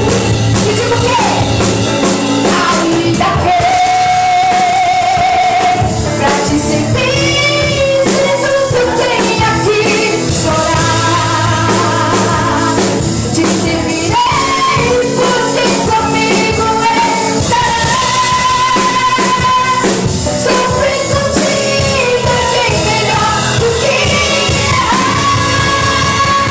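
Band music with a singer holding long sung notes over a dense, steady accompaniment.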